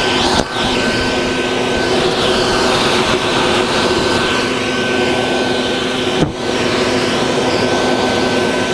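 Vacuum running steadily with a constant whine, used to suck up bald-faced hornets. Its sound dips briefly twice, about half a second in and about six seconds in.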